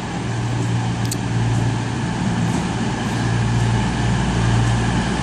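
Class 220 and 221 Voyager diesel multiple units running at the platform: a steady low drone from their underfloor diesel engines, with one brief sharp click about a second in.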